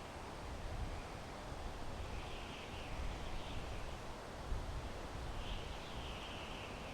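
Wind blowing through pine trees: a steady rushing hiss with a low, uneven rumble. Twice, a faint high twittering of a distant bird comes through, each lasting about a second.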